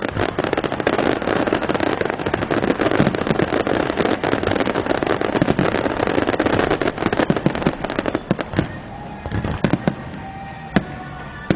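Fireworks bursting in a dense barrage of rapid crackles and bangs, thinning to scattered single bangs after about eight seconds.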